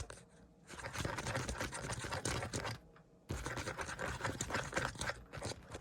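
Fingertips scratching and rubbing close to the microphone, ASMR-style, as a scalp examination. It comes in two long stretches of dense, crackly scratching, with a brief pause about three seconds in.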